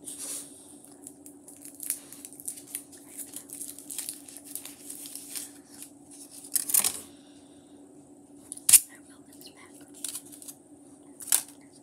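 Crinkling and tearing of packaging: a run of short rustles with three louder sharp crackles, over a steady low hum.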